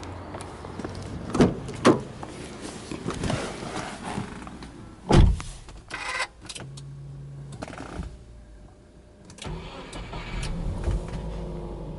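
A car door is opened and shut with sharp thumps, the loudest about five seconds in. After a quiet pause the Subaru Impreza's 1.5-litre flat-four boxer engine is cranked, catches near the end and runs on at idle.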